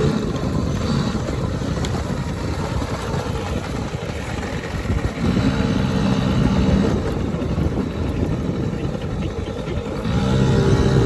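Small off-road vehicle engine running and revving, its pitch held steady for a couple of seconds about five seconds in and again near the end, under steady low noise.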